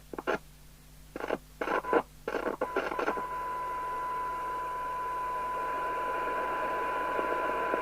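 Amstrad CB901 FM CB radio's speaker on receive. The squelch chops open and shut in short bursts of hiss for the first few seconds, then from about three seconds in it stays open on a steady test tone with hiss around it. This is a weak test signal near the receiver's sensitivity limit, about 0.3 microvolts for 12 dB SINAD.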